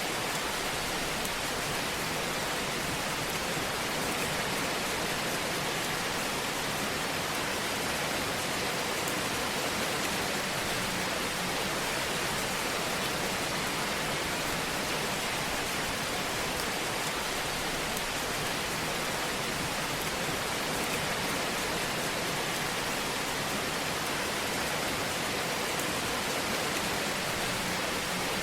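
Wood fire burning in a fireplace: a steady, even hiss with faint crackles.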